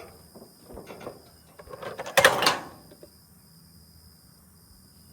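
Scrap metal being handled: a few light clinks, then one loud short scrape-and-clatter about two seconds in. Crickets chirr steadily in the background.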